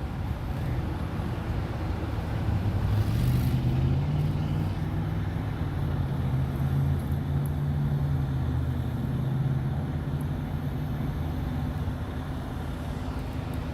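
A car engine running with a steady low hum.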